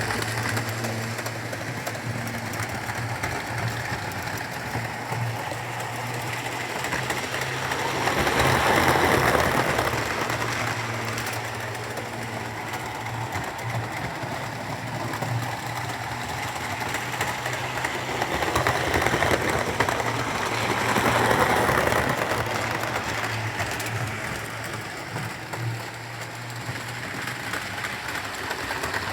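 Model Class 67 train running on the layout track: a steady motor hum with wheels rolling on the rails, growing louder twice as the train passes close by, about nine seconds in and again about twenty-one seconds in.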